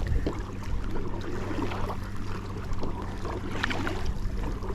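Kayak paddling: paddle blades dipping and splashing in the water, with water lapping against the hull, a cluster of splashes about three and a half seconds in, and a steady low hum underneath.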